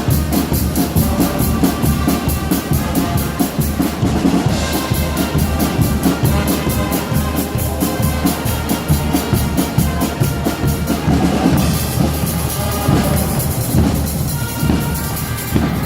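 Guggenmusik carnival band playing: brass instruments over a driving beat of bass drums, snares and cymbals, with loud cymbal crashes about four seconds in and again near twelve seconds.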